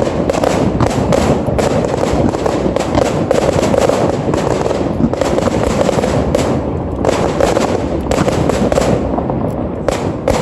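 Fireworks display at full barrage: many shells bursting in rapid, overlapping bangs and crackles, thinning briefly a couple of times.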